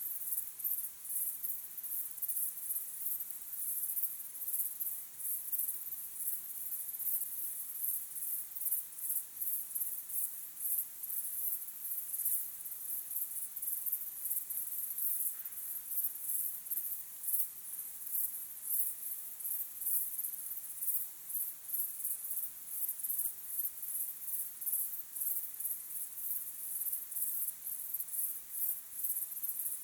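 A chorus of crickets chirping, many overlapping high-pitched pulsing trills.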